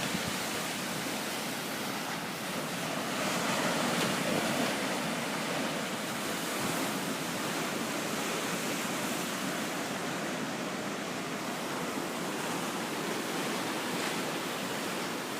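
Sea waves breaking and washing up a beach: a steady surf hiss that swells briefly a few seconds in.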